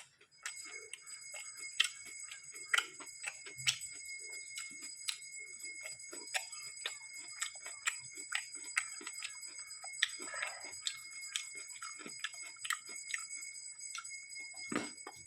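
Crunchy, irregular chewing and biting of raw vegetables close to the microphone, with a steady high-pitched ringing tone underneath.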